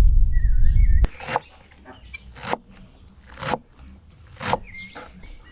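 A heavy low rumble for about the first second, then a series of crunches about once a second, with a small bird chirping in the background.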